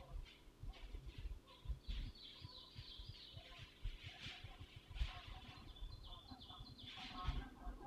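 Faint songbirds chirping and trilling in the woods, with high calls repeating through the stretch, over a low rumbling background.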